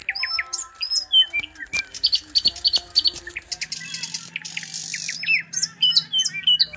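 Several birds chirping and calling, with a quick run of repeated high notes about two and a half seconds in. A faint low hum sits under the second half.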